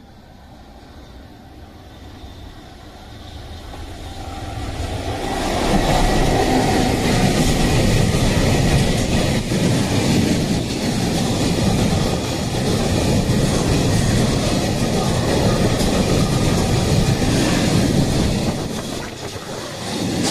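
Freight train passing close by: the noise builds over the first few seconds, then a long, steady run of wheels on rails holds for over ten seconds.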